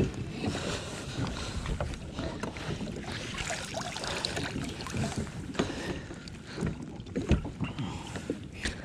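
Water splashing and sloshing around a kayak, with scattered irregular knocks, and wind on the microphone.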